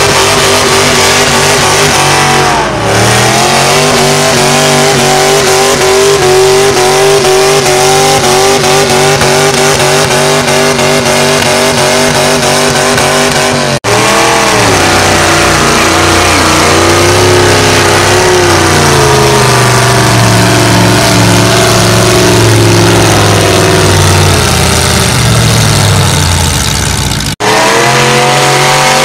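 Very loud engine of a pulling vehicle running hard at high revs, its pitch dipping and then climbing back a couple of times. The sound breaks off sharply twice, at about 14 and 27 seconds.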